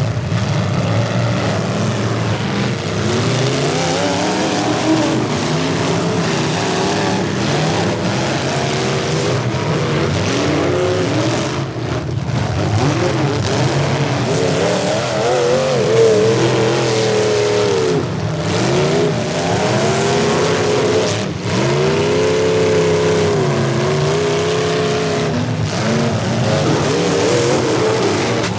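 Demolition derby cars' engines running hard and revving, their pitch repeatedly rising and falling, over a steady roar of engine and tyre noise.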